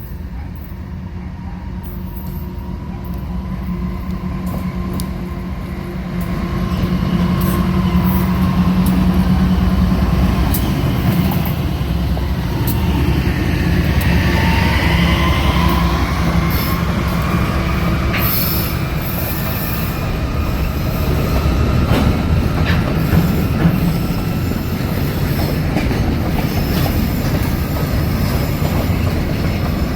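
Freight train rolling past with a steady low rumble that builds over the first several seconds. Its wheels squeal against the rails in wavering high tones, with scattered clicks from the wheels over the track.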